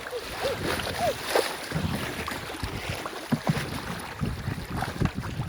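River water rushing and splashing around a canoe running a small rocky rapid, with short splashes and wind noise on the microphone.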